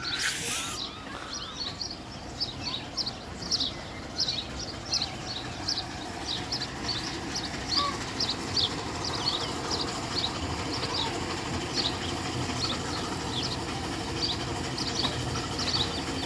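Small birds chirping: many short, high chirps repeating all through, over a steady low rumble, with a brief hiss right at the start.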